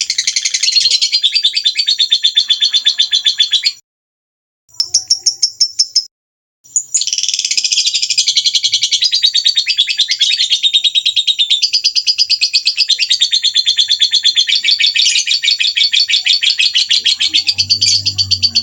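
Small songbirds twittering in fast, continuous rapid-fire chirps, a bird-tutoring 'masteran' recording. The song cuts out abruptly twice, about four and six seconds in, then resumes.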